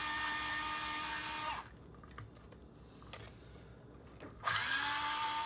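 Small cordless power driver running in two short bursts, each with a steady whine. The first slows and stops about a second and a half in; after a quieter pause with a few faint clicks, the second starts about four seconds in.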